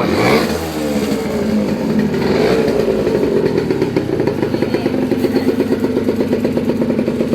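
Honda NS50F's 50 cc two-stroke single revved in a quick throttle blip that falls straight back, revved again about two seconds in, then settling to a steady idle.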